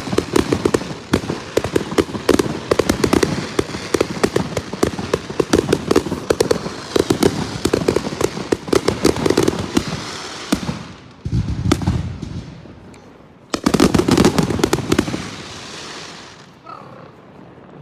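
Fireworks going off: a dense, rapid crackle of bangs for about ten seconds, then two more short volleys, fading out near the end.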